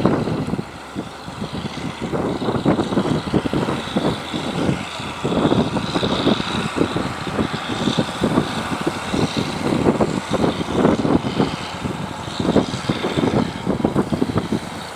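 Fishing boat engines running, with wind buffeting the microphone in an irregular, fluttering rumble.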